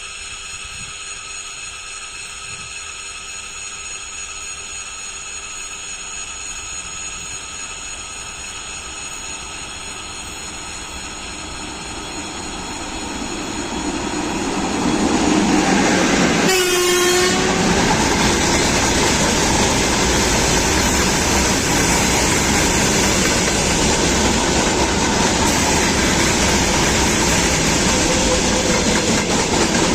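A train approaching, growing steadily louder, then passing close at speed from about halfway, with loud wheel and track noise and clattering over the rail joints.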